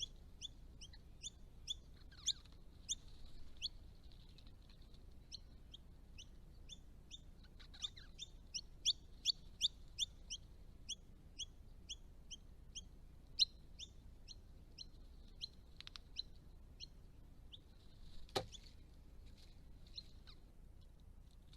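Rosellas calling: a long series of short, high chirps at about three a second, with one sharp click about 18 seconds in.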